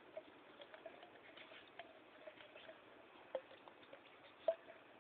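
Light, scattered scratching and tapping, like a baby myna shuffling and pecking on a surface, with two sharper taps in the second half.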